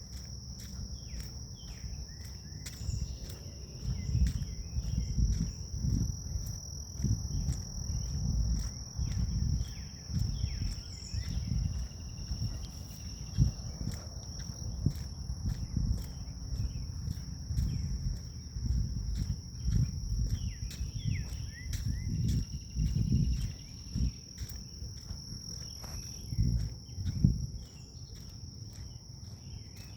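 Grass insects trilling in one steady high-pitched tone, with faint bird chirps. Irregular low rumbling bursts come and go from about four seconds in until near the end.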